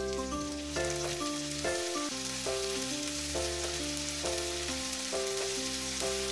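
Sliced garlic and shallots with ground chilli and shrimp paste sizzling in hot oil in a frying pan as a spatula stirs them, under a simple background melody of held notes that change about every half second.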